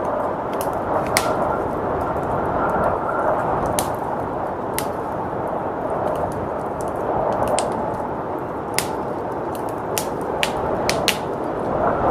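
Wood fire crackling with sharp, irregular pops over the steady rushing of blizzard wind.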